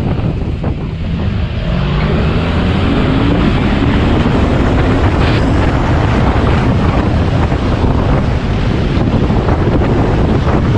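Motorcycle engine running at speed under heavy wind noise on the microphone, its pitch rising as it accelerates between about one and a half and four seconds in.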